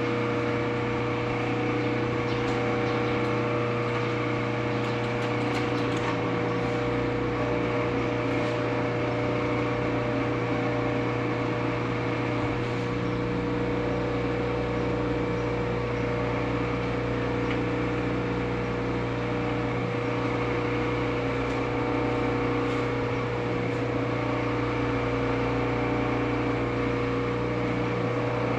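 Clausing lathe's electric motor running with a steady hum, with a few light ticks in the first several seconds.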